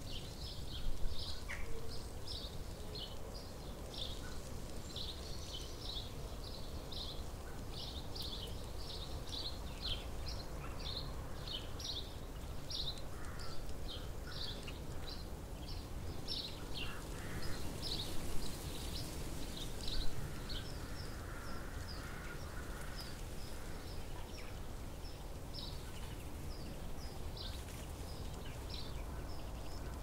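Small songbirds chirping over and over in quick short high notes, over a steady low background rumble. There are a few louder sharp knocks, one about a second in and a couple around twenty seconds in.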